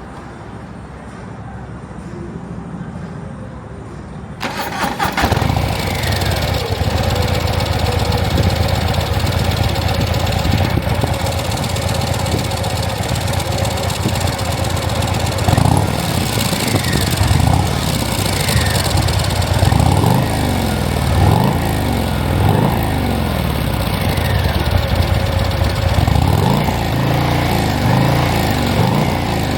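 Harley-Davidson Street Bob's Milwaukee-Eight 117 V-twin starting about four seconds in, then running, with the revs rising and falling again and again in the second half.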